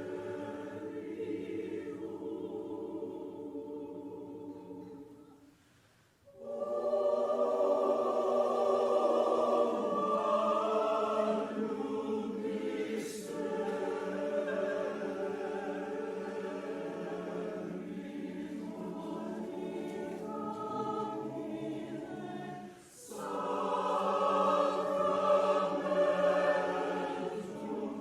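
Chancel choir singing in sustained, held phrases. The singing fades to a brief pause about six seconds in, then swells back louder, with another short breath about three-quarters of the way through.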